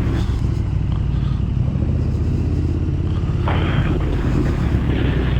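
Motorcycle engine running at a steady cruise while riding, under constant wind and road noise, with a brief louder hiss about three and a half seconds in.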